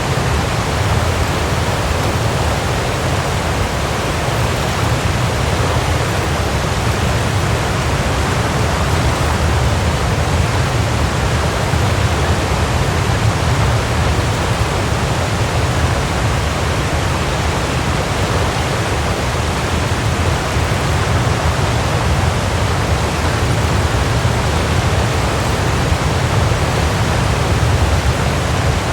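Waterfall: water falling and crashing in a steady, unbroken rush, heaviest in the low end.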